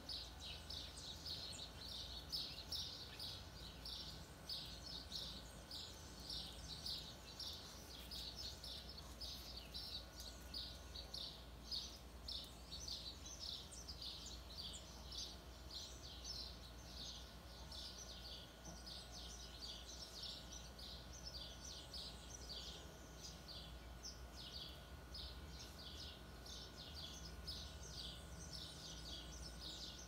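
Birds chirping without a break: a quick, steady run of short high chirps, several a second, over a faint low hum.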